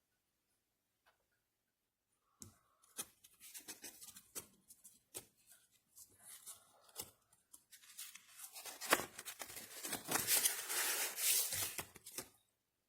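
Hand-handling noise: scattered clicks and rustling that build into a dense crinkling, tearing-like rustle for a few seconds, then stop.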